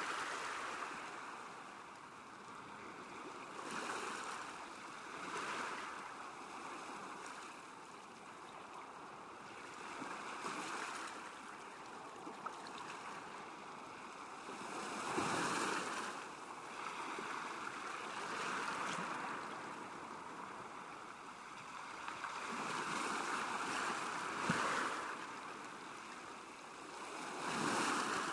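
Small waves lapping at a lake shore, a steady wash that swells and eases every few seconds, with a few faint splashes.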